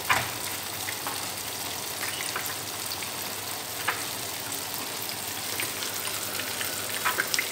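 Tofu frying in a pan of hot oil: a steady sizzle. A few light clicks stand out over it, the sharpest right at the start.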